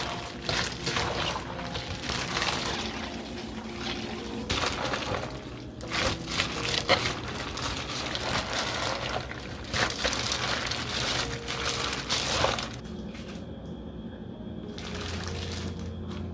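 Liquid pouring and splashing in several bursts over soft background music; the pouring stops about 13 seconds in, leaving only the music.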